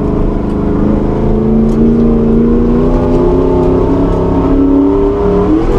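Nissan GQ Patrol's engine running under load, its revs climbing slowly and then holding steady, with a short dip near the end.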